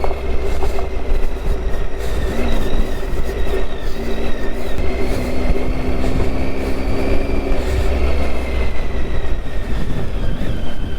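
Triumph Tiger 800's three-cylinder engine running steadily off-road, its note shifting slightly in pitch, under a heavy low rumble on the microphone.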